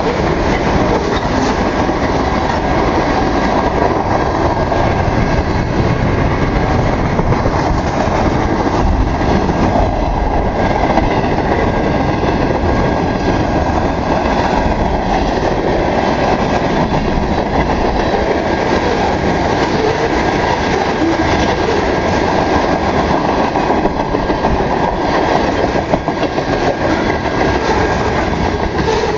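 Freight train's cars rolling past, with steel wheels clacking over the rail joints in a steady, continuous rumble.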